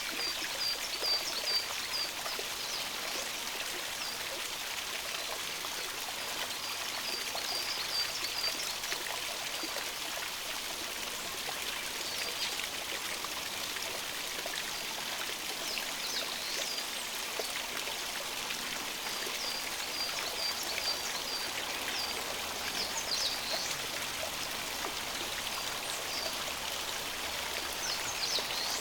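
A stream running steadily, with wild birds calling over it. Short runs of five or six quick high notes come three times, and single sweeping chirps are scattered in between.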